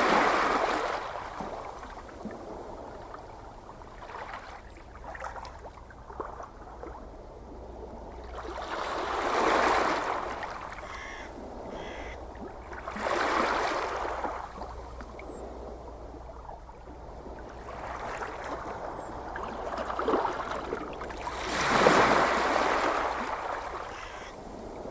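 Ocean waves washing ashore in slow surges: five swells rise and fall, each a rush of surf, with a steady low wash of sea between them.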